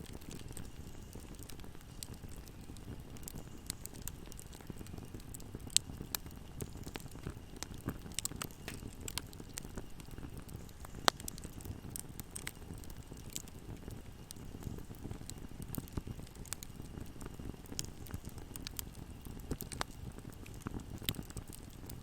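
Wood fire burning in a fireplace: a soft steady low rustle of flames with irregular sharp crackles and pops, two louder pops about 6 and 11 seconds in.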